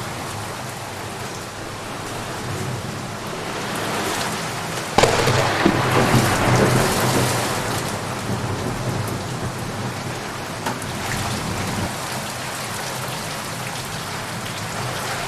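Steady heavy rain falling, with a sharp thunderclap about five seconds in that rolls on as a rumble for a few seconds before fading back under the rain.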